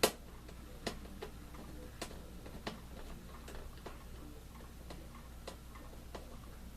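Irregular light clicks and taps of screws and fan grill parts being handled and fitted, with a sharper click right at the start.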